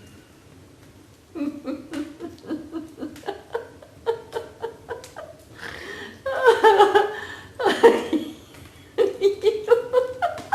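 Laughter-yoga laughing: deliberate laughter in short, rhythmic ha-ha bursts that starts about a second in and builds into longer, louder peals in the second half.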